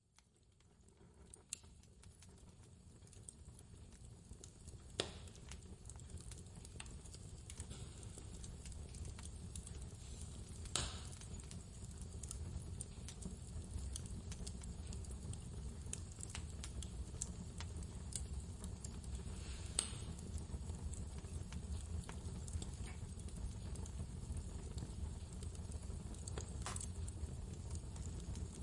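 Wood fire crackling, with scattered sharp pops over a steady low rumble of blizzard wind, fading in from silence over the first several seconds.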